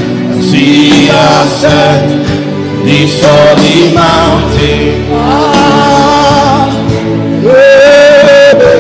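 Voices singing a gospel worship song over instrumental accompaniment, with one long held note near the end.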